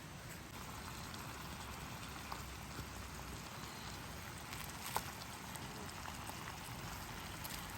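Wood fire burning in a secondary-combustion campfire stove: a steady hiss with scattered small crackles and one sharp pop about five seconds in.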